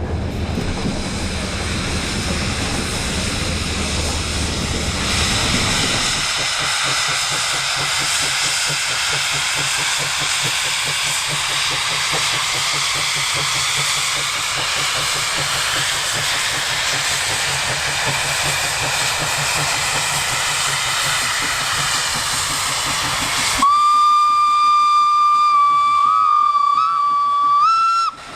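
Steam locomotive releasing steam with a loud, steady hiss, then its steam whistle sounding one long note for about four and a half seconds near the end, wavering slightly and rising just before it stops.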